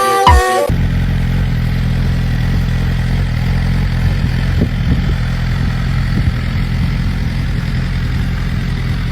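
A motorcycle engine idling steadily at an even pitch, after a snatch of music that cuts off under a second in.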